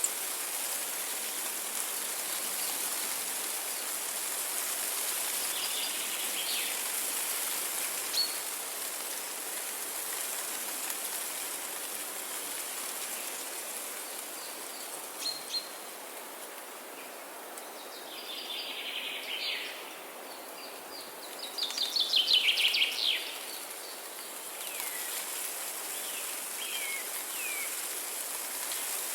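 Wild birds chirping and trilling over a steady outdoor hiss. Short calls come every few seconds, and a loud, rapid trill sounds about three quarters of the way through.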